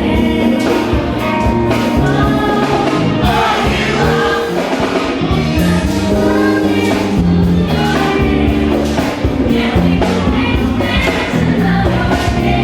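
Choir singing gospel music over a band, with a steady beat and a stepping bass line.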